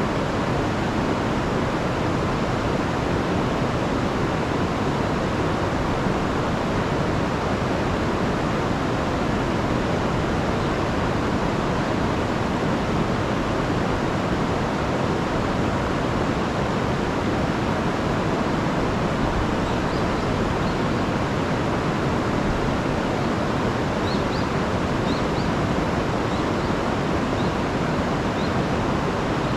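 A rain-swollen river rushing over a waterfall: a steady, unbroken rush of water.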